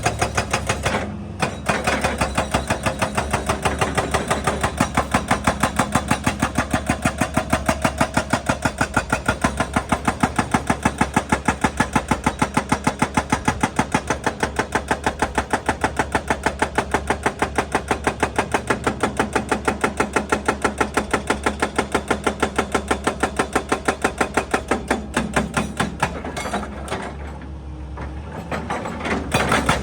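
Excavator-mounted hydraulic breaker hammering rock in a fast, steady rhythm over the running engine, stopping briefly about a second in and again for a couple of seconds near the end.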